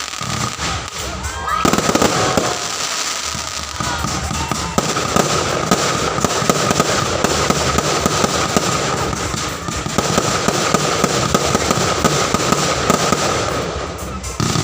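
A fireworks display: a dense, rapid run of crackles and pops that grows louder about two seconds in.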